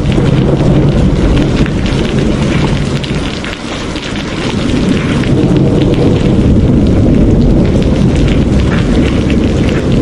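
Heavy rain pouring, with a deep steady rumble underneath. The sound dips briefly about three and a half seconds in, then swells back.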